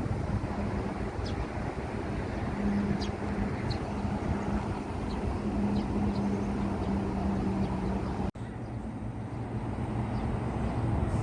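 Steady outdoor traffic noise with a low engine hum that swells and fades. About eight seconds in the sound drops out for an instant, then carries on with a deeper hum.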